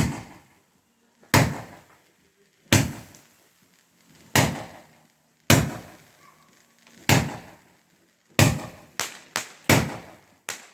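Loud firework bangs going off one after another, about one every second and a half, then coming faster near the end. Each bang has a short echoing tail.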